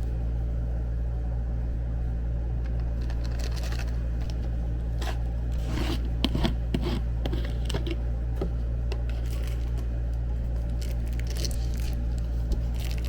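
Scattered light rustling, scraping and clicking of small objects being handled, over a steady low hum.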